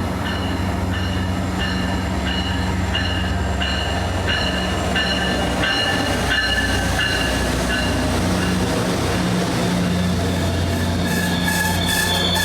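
A Caltrain train running by the station with a steady low drone and a high tone pulsing about twice a second. Rapid wheel clatter sets in near the end.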